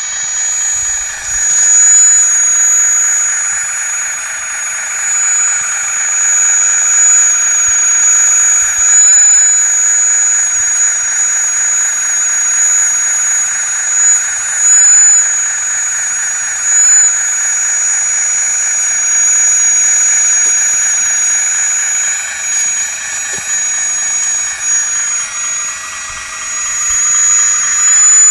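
Hydraulic pump and drive motor of a 1/16-scale RC hydraulic wheeled excavator whining steadily, its level rising and falling as the hydraulics are worked.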